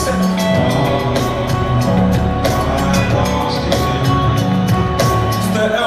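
Live concert music with no vocals: a band plays, drums keeping a regular beat of sharp cymbal-like hits over a moving bass line.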